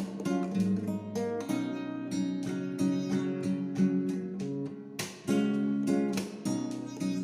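Acoustic guitar played in strummed and picked chords, with a brief break about five seconds in before a loud strum.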